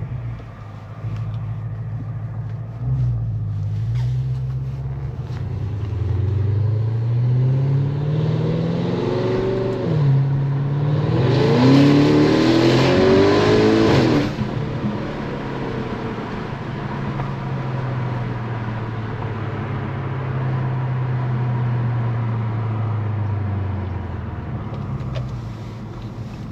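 Tuned Audi S6 engine accelerating: its pitch climbs, drops about ten seconds in and climbs again under a loud rushing hiss. The revs then fall back to a steady cruise and ease off near the end.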